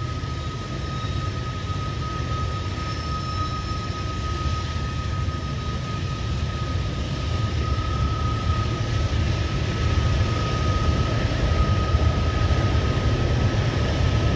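Freight train cars (covered hoppers and tank cars) rolling past, their steel wheels running on the rails in a steady heavy rumble that grows slightly louder, with a thin steady high tone over it.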